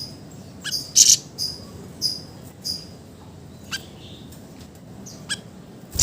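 Siri-siri songbird giving short, sharp, high chirps: a quick cluster in the first three seconds, then single calls about a second apart, with a loud one at the very end. A faint steady hiss lies underneath.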